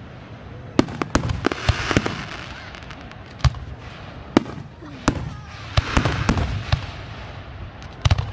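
Fireworks display: about a dozen sharp bangs of shells bursting at irregular intervals, with a noisy crackling wash between some of them, about two seconds in and again around six seconds in.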